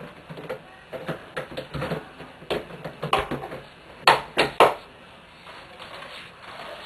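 Irregular clicks, taps and knocks of objects being handled at close range, with three louder knocks in quick succession about four seconds in.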